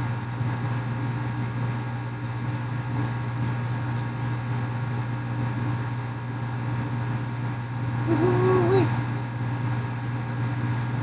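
Steady low mechanical hum, with a short voice-like hum or grunt about eight seconds in.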